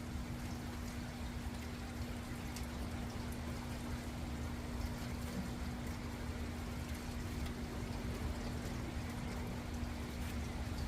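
Steady rain falling, with faint scattered drip ticks and a steady low hum underneath.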